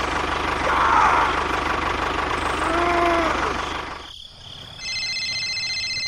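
Small engine running with a fast, even low pulse, and a short moo-like call about three seconds in. The engine sound cuts off abruptly about four seconds in, and a steady electronic tone of several pitches starts about a second later.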